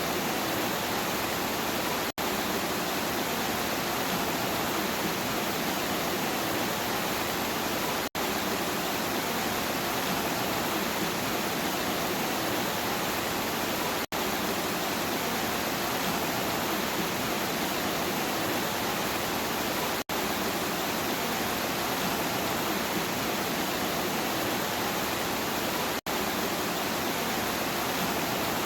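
Steady, dense rain hiss, broken by a split-second dropout about every six seconds.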